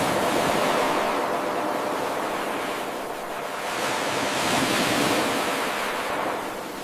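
Ocean waves breaking and washing on a shore: a steady surf hiss that builds at the start, eases a little about three seconds in, swells again, and ebbs near the end.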